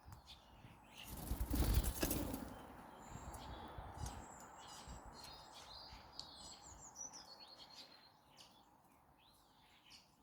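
A bird's wings flapping close by about a second in, the loudest sound, followed by a run of short high chirps and falling call notes from birds at a garden feeder.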